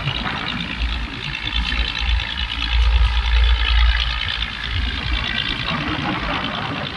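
Fishing boat's engine running steadily, with a heavy, uneven low rumble underneath that swells around the middle.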